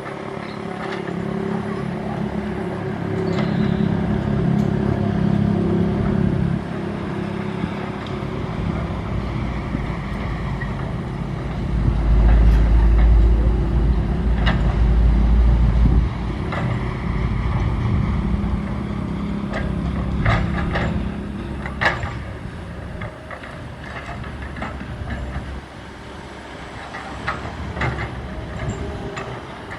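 SANY SY135F excavator's diesel engine working, its pitch and load rising and falling, loudest for a few seconds near the middle. Sharp knocks and clanks come through in the second half.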